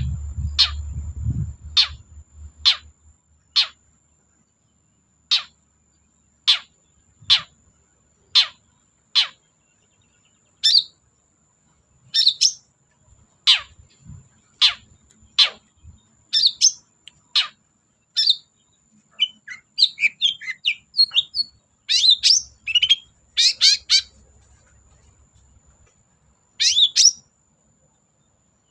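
Long-tailed shrike (cendet) singing: a run of sharp, downward-sweeping calls about one a second, then a faster, chattering song of mixed notes, and a short burst near the end. A faint steady high whine runs underneath.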